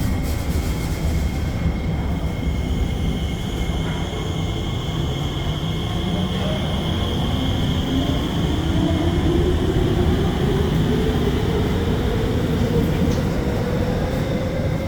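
SMRT R151 metro train running, heard from inside the car: a steady rail rumble with a high hum, and from about a third of the way in the traction motors' whine rises steadily in pitch as the train accelerates.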